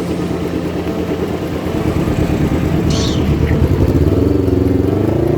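Motorcycle engine running on the road, getting louder with its pitch rising and wavering from about four seconds in. A brief high chirp sounds about three seconds in.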